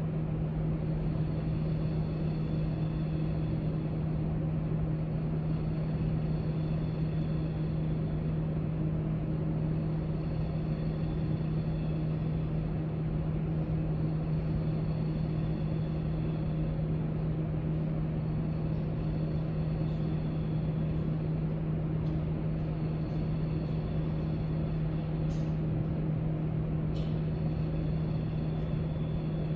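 Steady library room ambience: a constant low hum over an even rushing noise, with a few faint light clicks in the second half.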